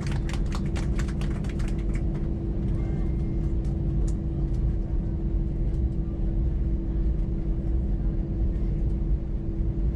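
Cabin noise of an Airbus A320-200 with CFM56 engines, heard from a forward window seat as it rolls on the ground after landing: a steady low rumble with a constant hum. Rapid clicking rattles run through the first two seconds, then fade.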